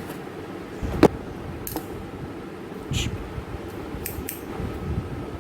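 Product packaging being opened and handled: a sharp click about a second in, then a few short crinkles and taps, over low background noise.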